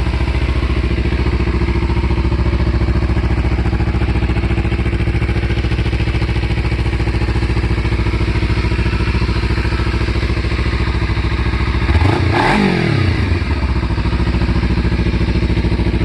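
2014 Kawasaki Ninja 300's parallel-twin engine idling steadily through a muffler drilled with extra holes, with one quick throttle blip about twelve seconds in that rises and falls back to idle. Still not throaty enough.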